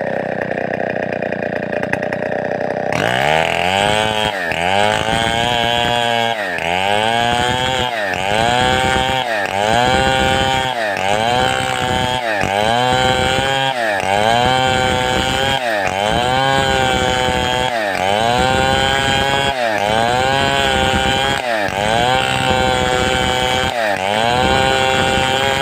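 Large two-stroke chainsaw of the Stihl 070 / New West 707 class running loud. For about three seconds its pitch holds steady. Then it dips and recovers about once a second, as the saw is rocked back and forth in a cut under load.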